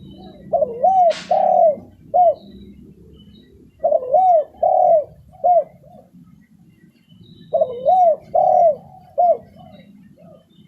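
Spotted dove (tekukur) cooing: three phrases of several arched coos each, about three and a half seconds apart. Faint high chirps of small birds sound in the background.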